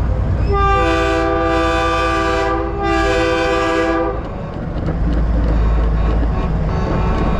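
A truck-mounted train horn blows a loud multi-note chord for about three and a half seconds, its upper notes breaking off twice. A steady diesel rumble runs underneath, and fainter horn tones follow near the end.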